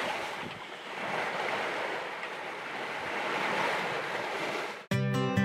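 Sea waves washing, with wind on the microphone: a hissing rush that swells and eases. It cuts off abruptly near the end as strummed acoustic guitar music starts.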